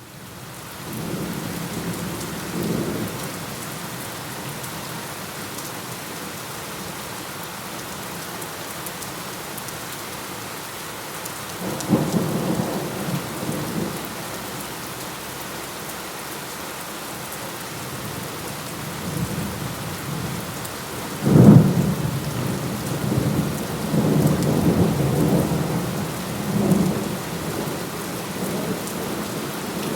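Steady rain with thunder: low rolling rumbles a couple of seconds in and again near the middle, then a sharp thunderclap about two-thirds of the way through that rumbles on for several seconds.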